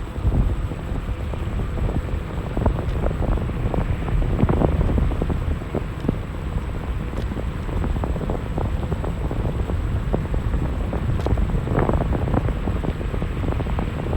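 Wind buffeting the microphone: a loud, uneven rumble that rises and falls in gusts.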